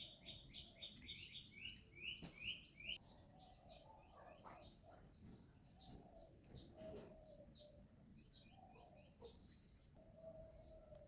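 Faint birds chirping: a fast run of repeated high chirps, about five a second, for the first three seconds, then scattered calls.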